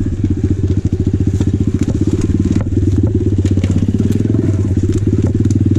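Small dirt bike engine idling steadily with an even beat of firing pulses, with faint scattered clicks over it.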